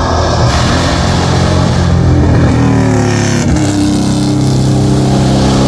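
Competition car engine running hard, close by. Its pitch falls briefly about three and a half seconds in, then climbs steadily again as the car accelerates.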